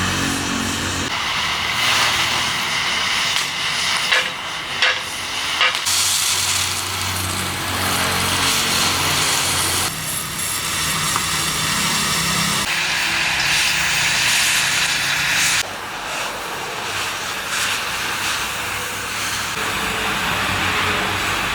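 Loud machinery noise with a steady hiss and a low engine-like hum, changing abruptly every few seconds, with a few sharp clicks a few seconds in.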